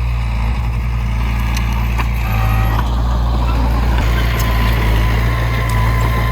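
Heavy diesel engine of earthmoving equipment running steadily with a deep, constant hum.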